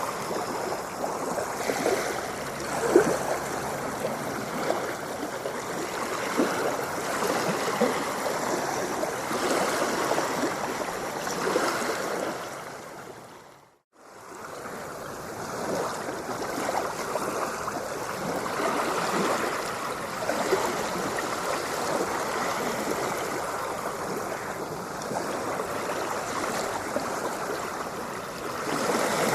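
Ocean water splashing and gurgling in a continuous wash. About halfway through it fades out to silence and fades straight back in.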